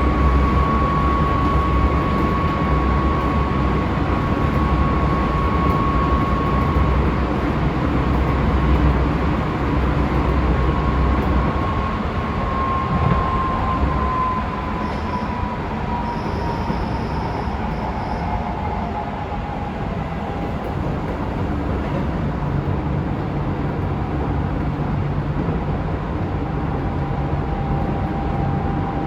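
Running sound heard inside a Keisei 3700 series electric train: a steady rail and undercarriage rumble with a thin whine. About halfway through, the whine slides down in pitch and the rumble eases a little as the train loses speed.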